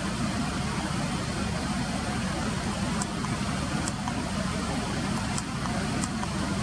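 Steady rumble of road traffic, even and unbroken, with four faint short high ticks or chirps in the second half.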